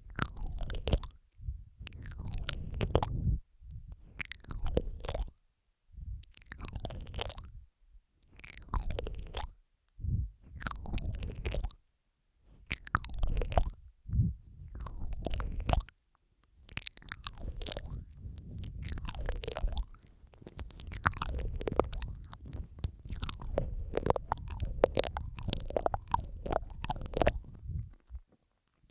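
ASMR mouth sounds close on the microphone: wet tongue clicks, smacks and licking noises in irregular bursts, layered over one another, with short silent gaps between bursts.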